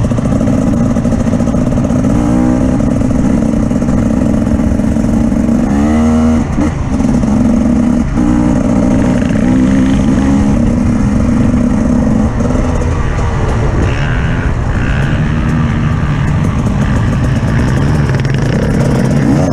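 Off-road vehicle engine running under load, its pitch rising and falling as the throttle is opened and closed, with a sharp rev about six seconds in and another near the end.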